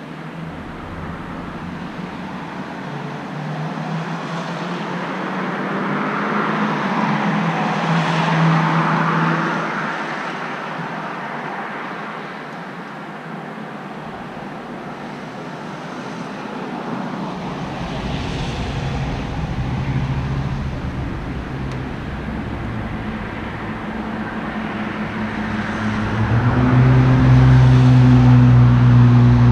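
Road traffic going by: vehicles pass one after another, their tyre noise swelling and fading. Near the end the loudest one passes with a steady engine hum.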